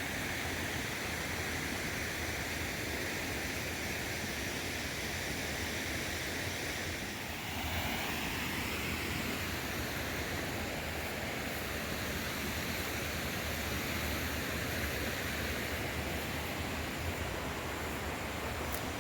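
River water rushing over small waterfalls and rocky cascades, a steady noise whose character shifts briefly about seven seconds in.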